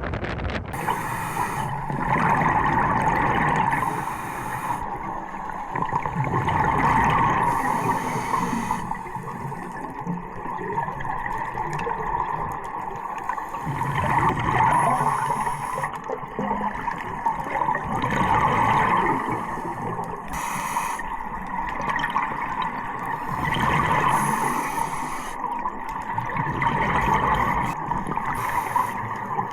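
Underwater sound of a scuba diver breathing through a regulator: bubbling exhalations swell and fade every four to five seconds over a steady muffled hum.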